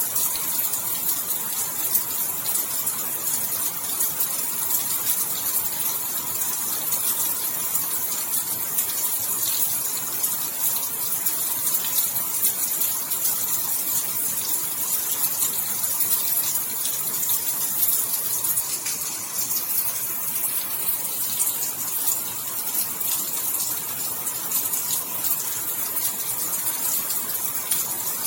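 Steady rain falling, a dense even hiss of countless drops with fine patter.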